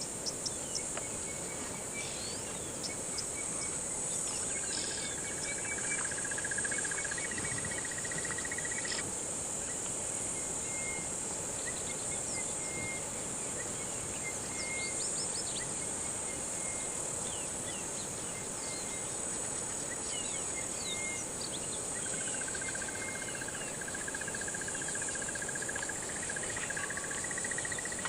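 Steady high-pitched chorus of crickets and other insects in the bush, with a lower pulsing trill that comes and goes and scattered short bird chirps.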